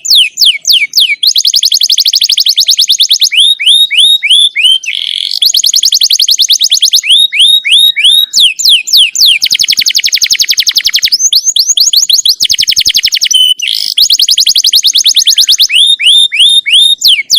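Songbird song from a tutoring recording: groups of four or five quick, downward-sweeping whistled notes alternating with long, very fast trills lasting a second or two, repeated in a regular, looping pattern.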